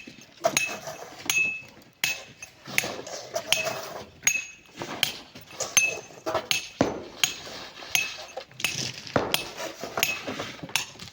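Metal hand tools striking rock and packed sand at a cliff face: a steady run of sharp blows, a little more than one a second, each with a short metallic ring.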